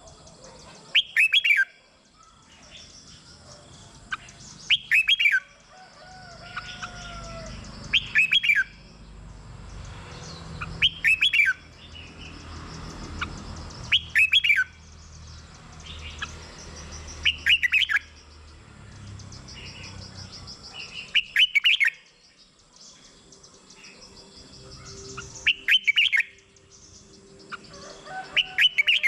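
Red-whiskered bulbul singing short, loud phrases, one about every three to four seconds, nine in all, with fainter high-pitched chirps between them.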